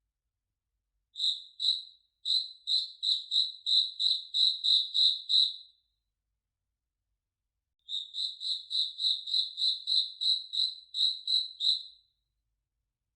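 A single cricket chirping, one clear high note repeated about three times a second, in two runs of chirps with a pause of about two seconds between them.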